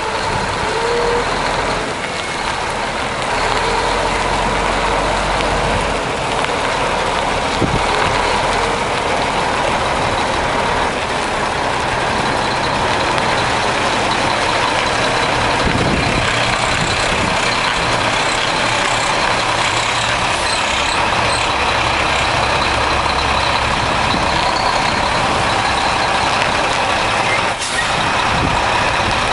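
1994 Mack truck's diesel engine running steadily.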